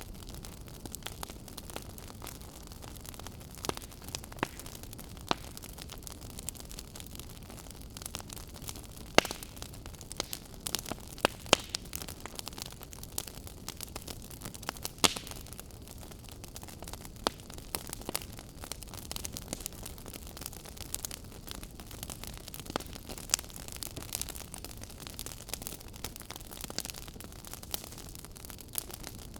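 Crackling fire: a steady soft hiss with irregular sharp pops and snaps, a few of them much louder than the rest.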